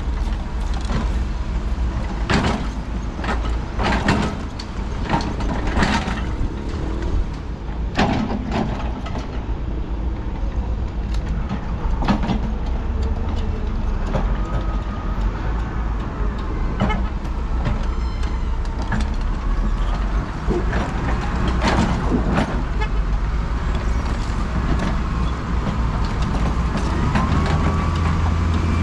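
Steady low engine rumble of heavy vehicles or machinery, with sharp knocks roughly once a second for the first eight seconds and wavering squeals in the second half.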